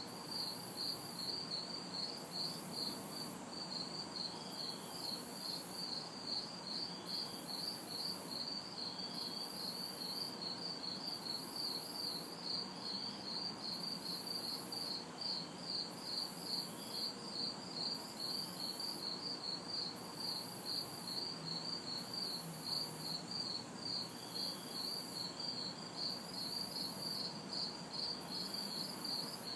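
Crickets chirping in a steady, even rhythm of about three chirps a second, over a second insect's very high buzz that switches on and off about once a second. A faint hum of distant traffic lies underneath.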